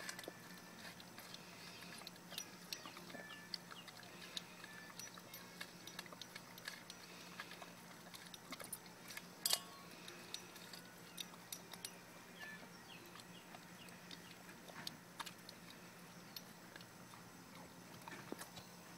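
An animal eating chicken: soft, irregular chewing clicks and crunches, with one sharper click about halfway and a few brief high squeaks.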